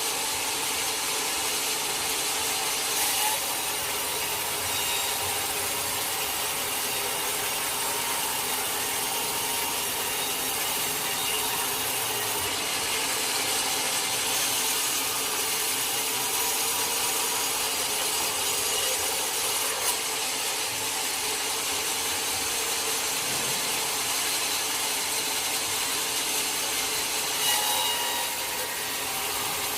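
Sawmill saw cutting steadily through teak wood, a continuous sawing noise with a few brief knocks along the way.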